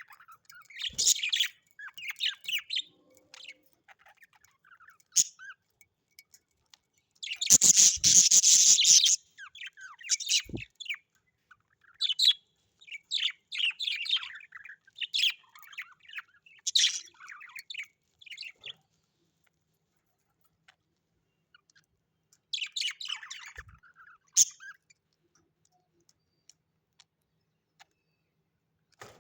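Parrots chirping and twittering in short, high bursts. About eight seconds in comes a louder, harsher burst lasting over a second, and there is a pause of a few seconds past the middle before more chirps.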